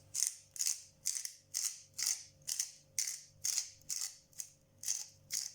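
Pepper mill being twisted to grind pepper over fish, a short gritty crunch about twice a second.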